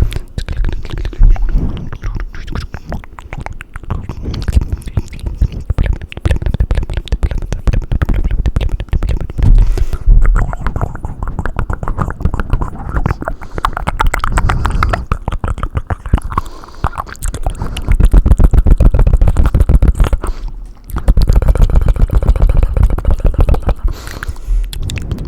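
Fast wet mouth and tongue sounds right on a microphone: a dense, rapid run of clicks, smacks and tongue flutters, with two louder, bassier stretches in the second half.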